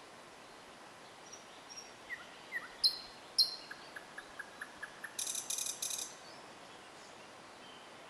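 Songbirds calling: a few thin high notes, then two loud sharp calls about half a second apart. A run of soft quick ticks follows, and about five seconds in a short, rapid, harsh chatter.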